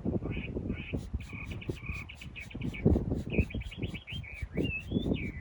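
Small birds chirping in a quick run of short, high notes that rise and fall toward the end, over irregular knocks and clatter.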